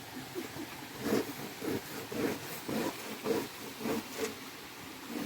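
Green corn being grated by hand on a worn grater: rhythmic scraping strokes, about two a second.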